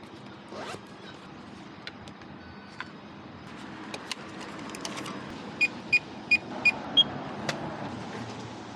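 Electronic keypad beeps over steady street traffic: four evenly spaced beeps at one pitch, then a fifth, higher beep, with a few sharp clicks around them.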